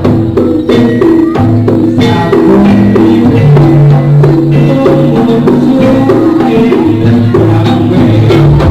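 Live jaranan gamelan music: pitched percussion plays a repeating melodic pattern over drums and sharp struck beats.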